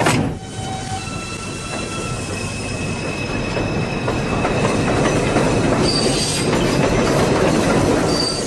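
A sharp knock right at the start, as the subway car doors shut. Then a New York City subway 2 train pulls out, its running rumble building over several seconds, with thin, high wheel squeal on the rails.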